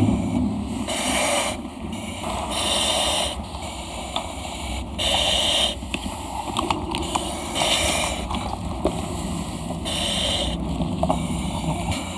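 Breathing through a compressed-air breathing apparatus face mask: a hiss from the demand valve with each breath, repeating every two to three seconds. A few light metallic knocks come in between.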